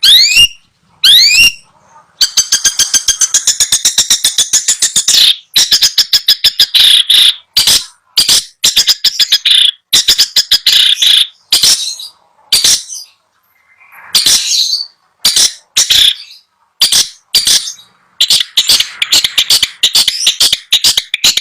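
Long-tailed shrike (cendet) singing loudly: two rising whistled notes near the start, then long runs of rapid, harsh chattering notes broken by short pauses.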